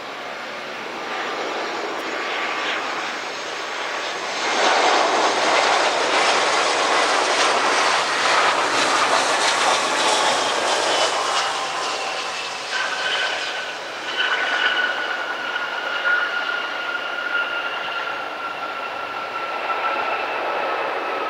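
Airbus A320 jet airliner passing on its landing. The rushing engine noise swells and peaks for several seconds, then a high engine whine stands out, slowly falling in pitch as the noise eases.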